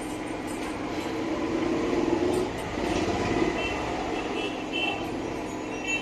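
Background traffic noise, a vehicle passing, swelling about a second in and easing off after three seconds.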